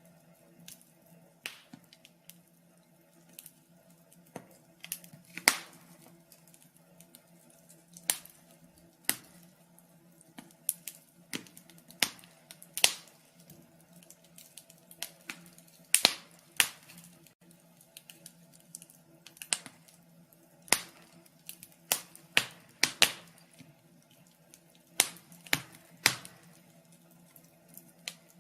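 Wood fire crackling, with irregular sharp pops and snaps, a few of them much louder than the rest, over a faint steady low hum.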